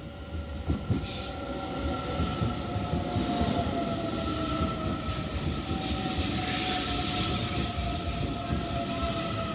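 The Train Suite Shiki-shima sleeper train rolls slowly past along the platform as it pulls in to stop. A steady whine slowly drops in pitch as the train slows, over the rumble and hiss of the wheels on the rails. The sound is loudest as the front cars go by.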